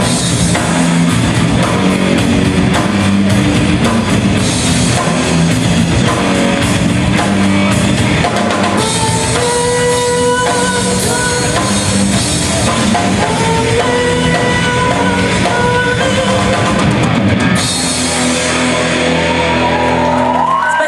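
Live heavy rock band playing an instrumental passage: electric guitars and drum kit, with a lead guitar playing held melody notes through the middle.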